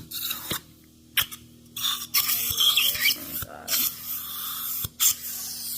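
Dental equipment running in about six stop-start bursts of high hissing noise, with a steady low hum underneath.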